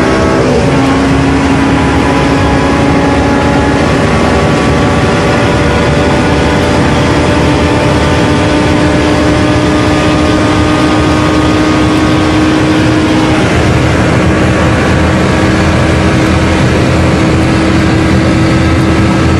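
Car engine pulling hard at high speed, heard from inside the cabin over heavy wind and road noise. About half a second in, the engine note drops with an upshift, then climbs slowly and steadily as the car keeps accelerating.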